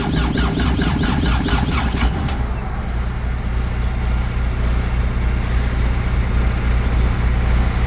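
Reefer unit's diesel engine cranking on the starter off jumper cables, a fast rhythmic churning of about six to seven pulses a second that stops abruptly about two seconds in. A steady low engine drone remains after the cranking stops.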